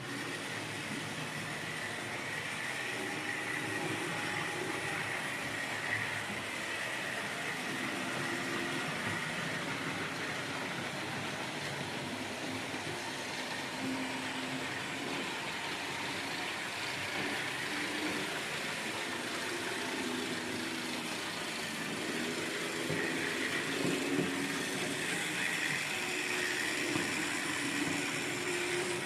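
Märklin H0 model trains running on the layout: a steady hum of the small locomotive motors and the rolling of wheels on the track, with pitched tones that shift as the trains move.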